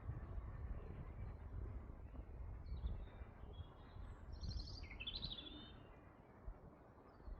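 A songbird sings one short, high, rapid trilling phrase a few seconds in, over a steady low rumble of background noise.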